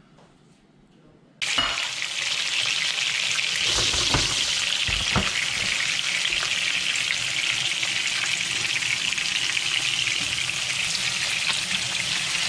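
Breaded redfish fillets frying in hot oil in a pan: a steady, loud sizzle with dense crackling that starts suddenly about a second and a half in, with a couple of low knocks against the pan a few seconds later.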